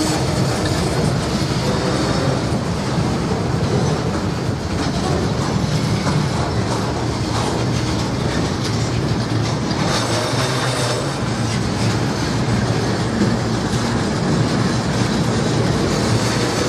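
Norfolk Southern freight train rolling past, its steel wheels running on the rails with a steady, loud noise and some clacking.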